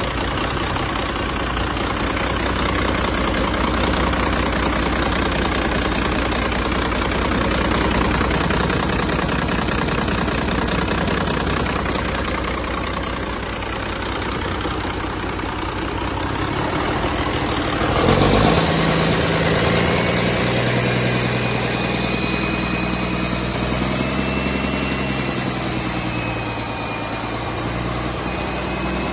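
1996 Cummins L10 inline-six diesel engine running steadily. About two-thirds of the way through there is a brief, louder surge, after which it settles into a more even, steady note.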